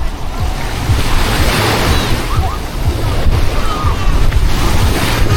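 Steady rushing of sea surf, with wind buffeting the microphone in uneven low rumbles.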